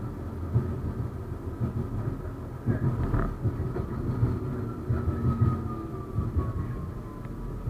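71-931M Vityaz-M tram running along the rails: a steady low rumble with irregular knocks from the wheels and track. There is a brief squeal about three seconds in, and in the second half a thin whine that slowly falls in pitch.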